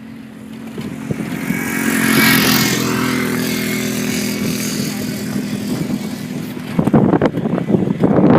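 Jeep Wrangler's engine running steadily under load on sand, with a rush of noise swelling about two seconds in and fading. From about seven seconds in, choppy wind buffeting on the microphone takes over.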